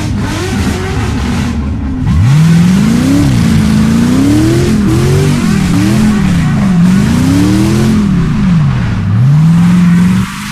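A car engine revving hard, its pitch rising and falling over and over at high revs, starting about two seconds in and cutting off suddenly near the end.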